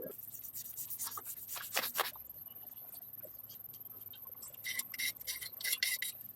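Irregular short rubbing and scraping strokes of hand work on a part: a run of strokes at the start, a quieter stretch, then another run near the end.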